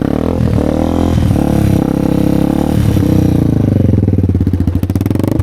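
Motorcycle engine running and revving, its pitch rising and falling, while the bike is pushed out of the mud.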